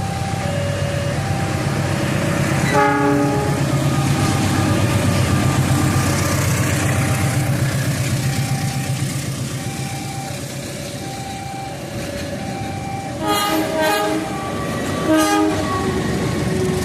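A train passing with a steady low rumble, its horn sounding briefly about three seconds in and again in a few short blasts near the end. A level-crossing warning alternates between two tones, about one a second, underneath.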